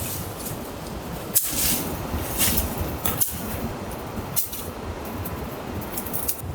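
A few short, sharp crackles and clicks over a steady low rumble.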